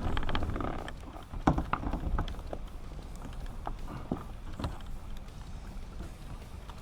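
Kayak being paddled: irregular knocks and thumps of the paddle and gear against the hull over a low rumble, with the sharpest knock about a second and a half in.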